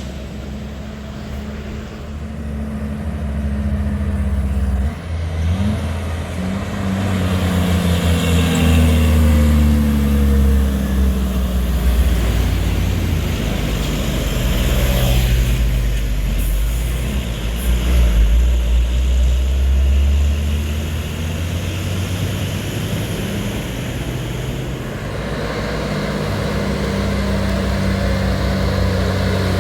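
Heavy truck engine working hard on a climb, its revs rising and falling. It grows louder over the first several seconds and stays loud.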